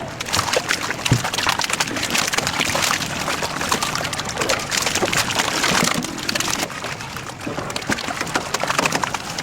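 Live catfish thrashing and splashing in shallow water: a dense run of wet slaps and crackles that thins out about six and a half seconds in.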